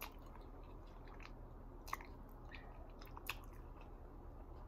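A person chewing food close to the microphone, quiet, with a few soft wet mouth clicks.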